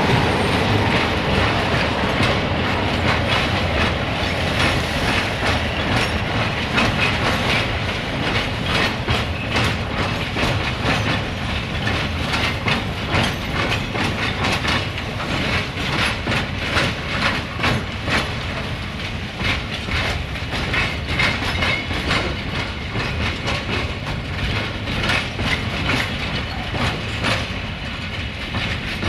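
Loaded container flat wagons of an intermodal freight train rolling past, wheels clacking over rail joints in a steady run of clicks over a continuous rumble.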